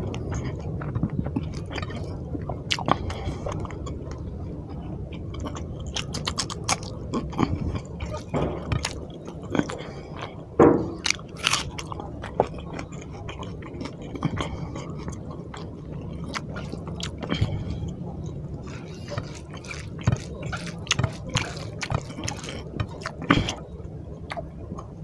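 Close-up chewing and wet mouth sounds of someone eating rice and pabda fish curry by hand, with frequent short mouth clicks and smacks.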